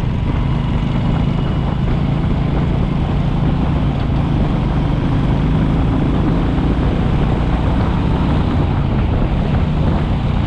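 Royal Enfield Classic 350's single-cylinder engine running steadily under way, with its low exhaust note holding an even speed.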